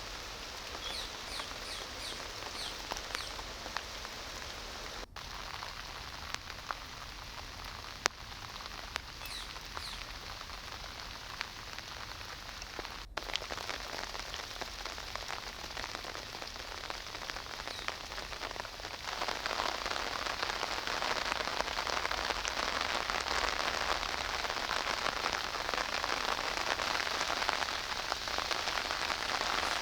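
Steady rain falling and pattering on surfaces, growing noticeably louder about two-thirds of the way through.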